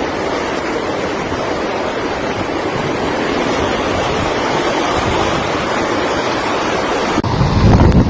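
Hurricane wind and pounding surf: a steady, loud rush of noise. About seven seconds in it changes abruptly to louder, lower buffeting of wind on the microphone.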